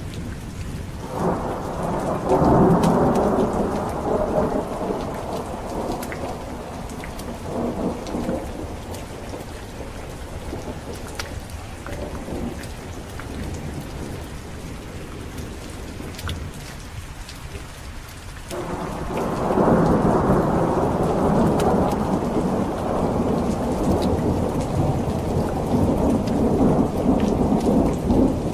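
Thunderstorm: steady heavy rain with two long rolls of thunder, one building about a second in and fading over several seconds, the other starting about two-thirds of the way through and rumbling on.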